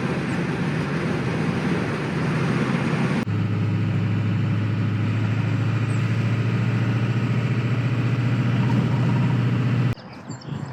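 Diesel engine of a piece of heavy equipment running at a steady speed. The sound steps abruptly about three seconds in and drops much quieter just before the end.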